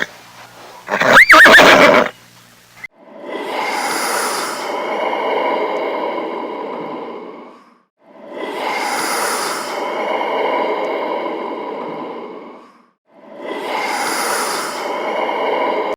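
A horse whinnying: one loud whinny about a second in, followed by three long, rough stretches of sound of about five seconds each, with short gaps between them.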